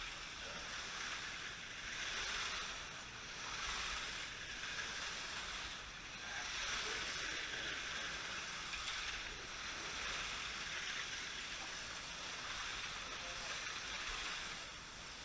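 Slot cars lapping the track: the whirring hiss of their small electric motors and pickups on the rails, swelling and fading as the cars pass, about every two to three seconds.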